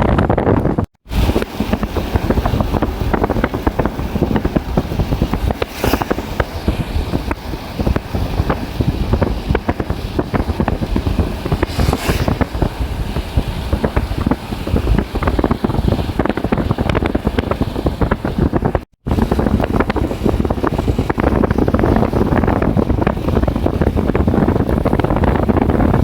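Strong storm wind buffeting the microphone: a loud, continuous rumbling rush with crackle, cut by two brief silences, about a second in and about two-thirds through.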